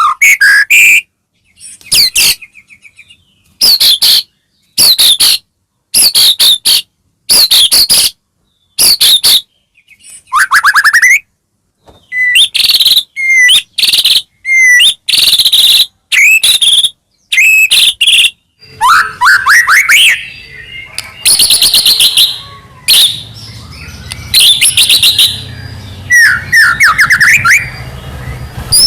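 White-rumped shama (murai batu) singing loudly: rapid bursts of varied whistles, rising glides and chattering phrases, one after another with short silent gaps between them. From about two-thirds of the way through, a faint low hum sits under the song.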